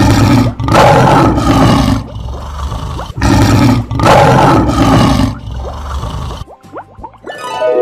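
Lion roar sound effect, heard twice, each roar lasting about two seconds with a short pause between. Plucked harp music comes back in near the end.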